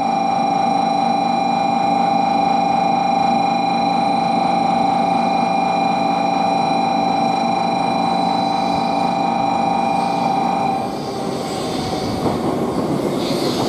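A steady high electronic tone holds one pitch until it cuts off about eleven seconds in. Then the running noise of a 700 series Shinkansen rises as the train pulls in alongside the platform.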